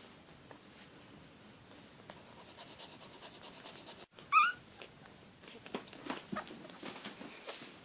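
One-week-old Maltese puppy giving a single short, high squeak about halfway through, followed by soft scattered rustling and clicks.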